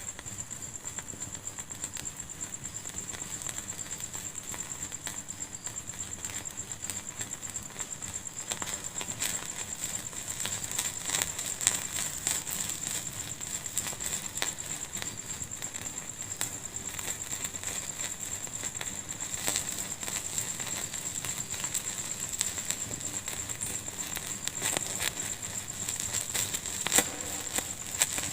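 Wood fire in a fireplace crackling, with a steady scatter of small snaps and pops and two louder pops, about twelve seconds in and near the end.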